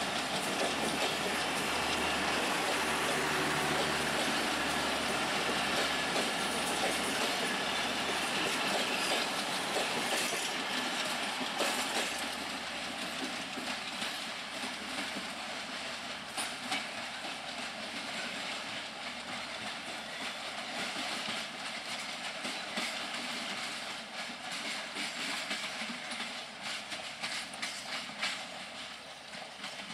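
Passenger train coaches rolling past on the rails, wheels clicking over rail joints, the rumble slowly fading from about twelve seconds in as the train moves away.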